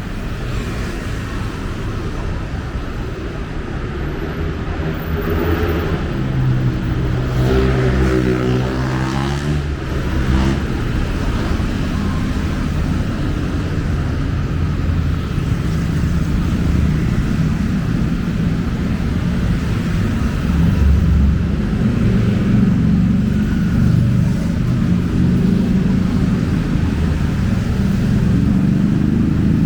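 Busy city road traffic: a steady rumble of car and bus engines and tyres. Between about 7 and 10 seconds in, one vehicle's engine stands out, its pitch sliding as it passes.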